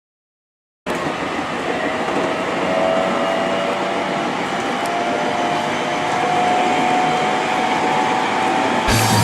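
After about a second of silence, a train running: steady rumbling noise with a faint whine slowly rising in pitch. Music comes in near the end.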